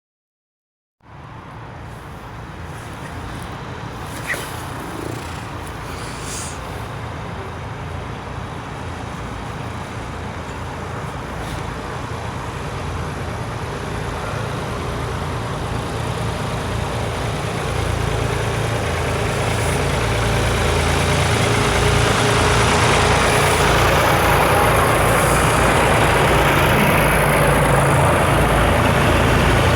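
Tractor engines and tyres on the road, growing steadily louder as the tractors approach, with a deep rumble underneath.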